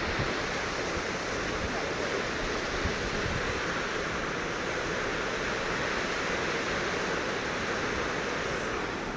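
Steady, even rushing roar of Thomson's Falls, a 74-metre waterfall, its water crashing continuously.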